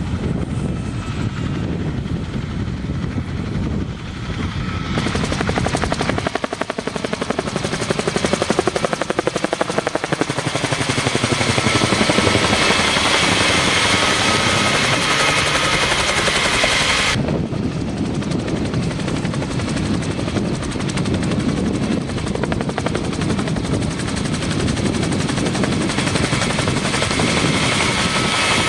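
Bell 47 helicopter flying by, its two-bladed main rotor beating rapidly over the piston engine. The sound swells as it passes close and switches abruptly about seventeen seconds in.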